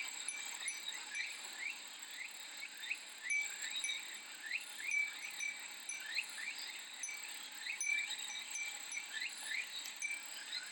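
Japanese glass wind chime (fūrin) tinkling in short rings over a steady chorus of summer cicadas, with many short rising chirps repeating throughout.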